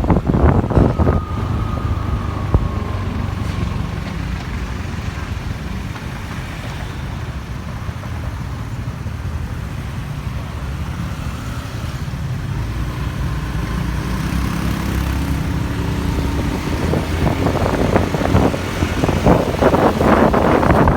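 Motorbike engine running and surrounding road traffic heard from the back of a moving motorbike taxi, with wind buffeting the microphone more strongly near the end.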